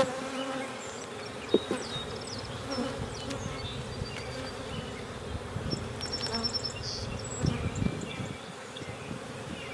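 Honey bees buzzing in a steady hum around an opened hive, with a few faint knocks.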